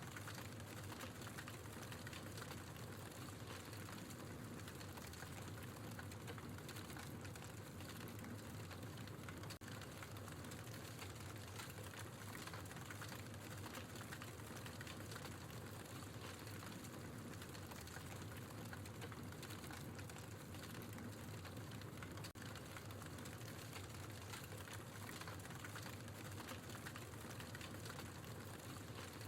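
Wood fire burning in a fireplace, crackling steadily with many small snaps and pops over a soft hiss.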